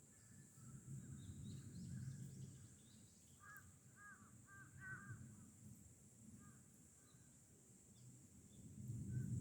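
Very quiet: a distant bird calls four times in quick succession about halfway through, over low rumbling and a steady high hiss.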